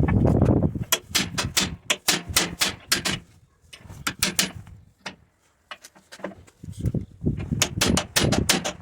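Rapid, irregular series of sharp clicks and knocks in quick clusters, with a low rumbling handling noise at the start and again near the end.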